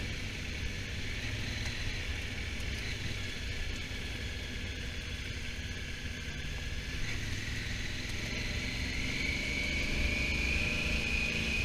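Honda Africa Twin motorcycle engine running steadily on the move, with a higher whine that rises and grows louder about nine seconds in.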